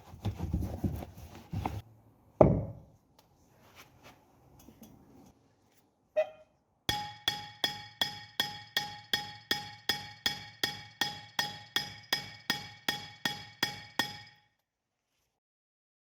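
A hammer striking a steel anvil in a steady run of about three blows a second, each blow ringing with clear metallic tones. Before the run come scattered knocks and clanks of metal being handled.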